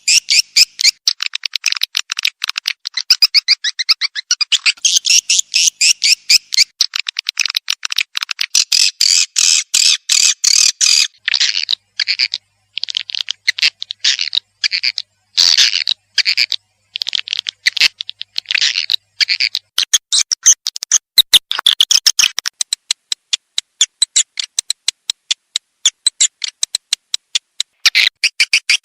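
Swiftlet call recording used as a lure track: fast, high, buzzy chirping and twittering of swiftlets, densely repeated, with a few short breaks around the middle. Such calls are played to draw swiftlets in to roost and nest in a swiftlet house.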